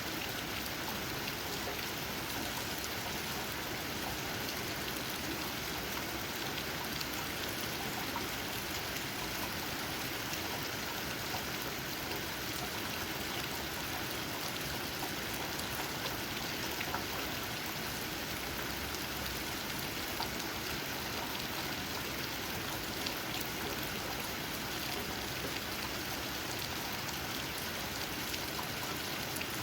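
Steady rain falling, with many small drops tapping on leaves throughout.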